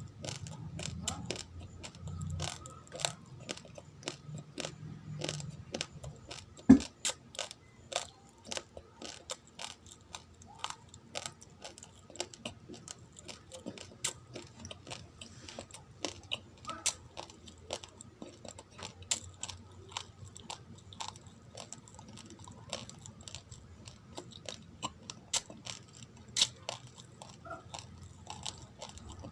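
Raw, uncooked rice grains being crunched and chewed close to the microphone: a constant irregular run of sharp crackling clicks, several a second, with one loud crack about seven seconds in.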